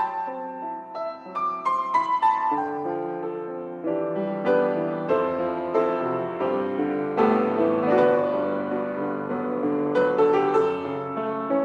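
Solo piano playing a slow piece of sustained chords and melody notes.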